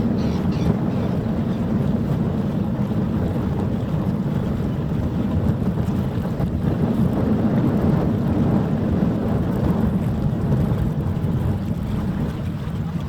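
Wind buffeting the microphone: a steady low rumbling noise with no horn or other distinct sound.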